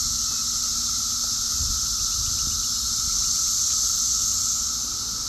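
Chorus of seventeen-year periodical cicadas: a steady, unbroken drone from huge numbers of insects at once, with a high hiss over a lower buzzing tone.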